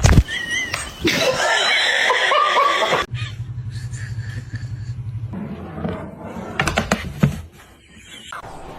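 A person laughing, the sound changing abruptly every couple of seconds.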